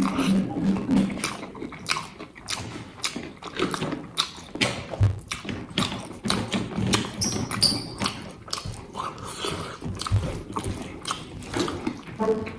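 A person eating close to the microphone: chewing and biting with many sharp, irregular crunches and wet mouth clicks.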